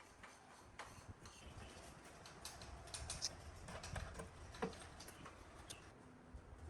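Faint, irregular light clicks and taps, more of them in the middle.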